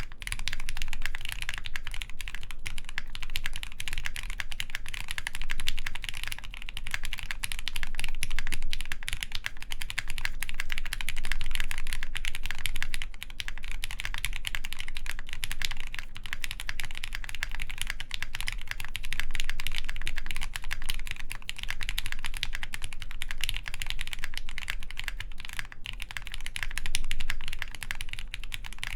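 Continuous fast typing on a mechanical keyboard with lubed Gateron Hippo switches, GMK Shoko keycaps and a full polycarbonate plate: a steady stream of dense keystroke clicks.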